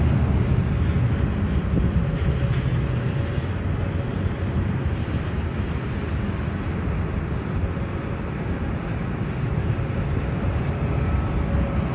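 Airbus A320 jet airliner's engines running, a steady deep rumble with a faint whine, easing slightly partway through and building again near the end.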